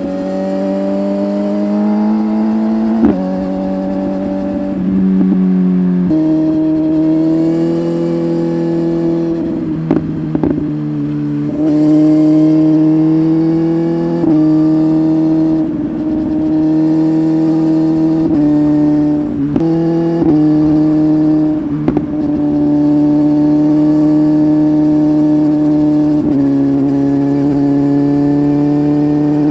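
BMW S1000RR inline-four with an Arrow aftermarket exhaust, running steadily under way. Its note climbs slowly, then drops in sudden steps several times, typical of gear changes, and holds level for several seconds between them.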